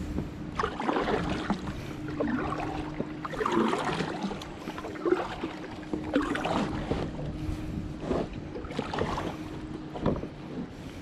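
Kayak paddle blades dipping and splashing through the water in strokes about once a second, over a faint steady tone.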